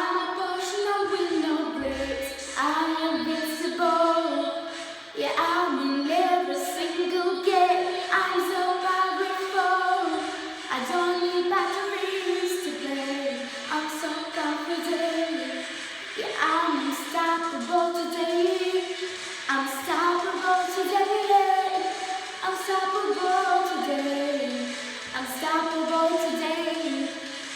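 A young girl singing a pop song, her melody line bending and changing pitch every second or so, with little or no bass accompaniment to be seen.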